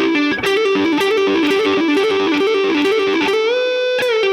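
Guitar playing a fast repeating minor pentatonic lick, with hammer-ons and pull-offs between the 12th and 14th frets on the G and D strings, alternating between the two strings. About three and a half seconds in, it ends on a held bend that rises in pitch on the 14th fret.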